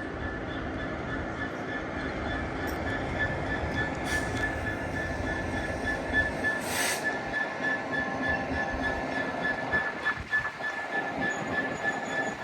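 A train running at the station: a steady low rumble with a steady high-pitched tone above it, and a short hiss about seven seconds in.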